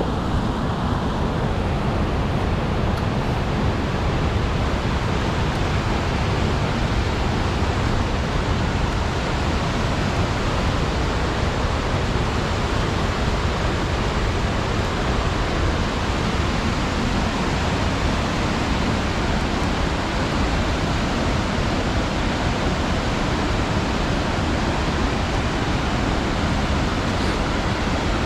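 Rushing water of a waterfall and mountain stream, a loud, steady noise with no breaks.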